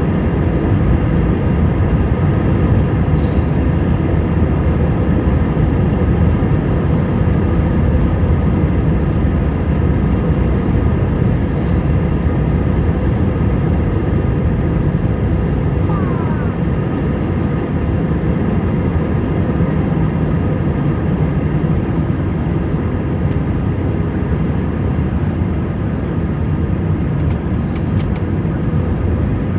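Airbus A320 cabin noise in flight: the jet engines and airflow make a steady loud rush with a constant hum of several tones, unchanging throughout.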